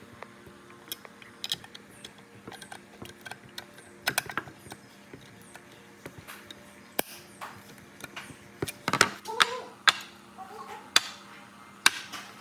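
Irregular clicks, taps and small metallic clinks of hand work on fan parts, growing busier and louder in the second half, over a faint steady hum.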